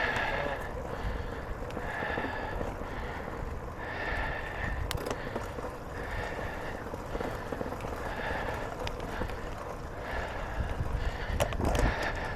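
A cyclist breathing hard while pedalling, a rhythmic exhale about every two seconds, over a steady rumble of tyres and wind on the microphone.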